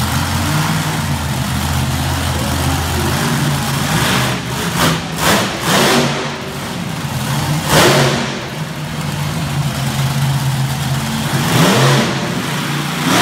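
Monster truck engine running with a steady low rumble, revved hard in several surges about four, five, eight and twelve seconds in.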